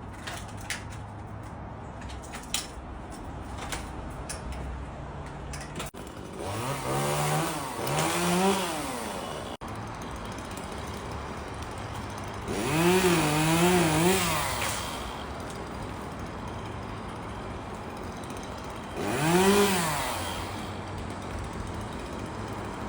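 Chainsaw idling, with three bursts of throttle about six, twelve and nineteen seconds in. Each time the engine pitch rises and falls, wavering during the middle burst. A few sharp clicks are heard in the first few seconds.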